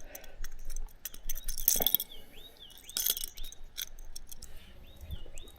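Small metallic clinks and rattles of a fishing lure's treble hooks and snap clip being handled while a lure is swapped. Over the second half a bird repeats a short call.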